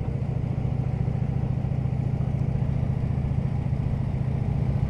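Harley-Davidson touring motorcycle's V-twin engine running steadily on the move, a low pulsing note that holds an even pitch.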